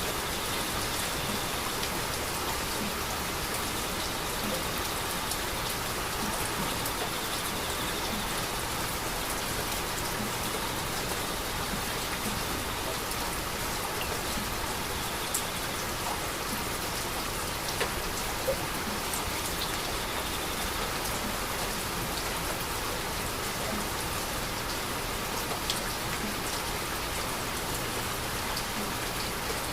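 Steady heavy rain falling, with scattered drops ticking sharply on a surface a few times.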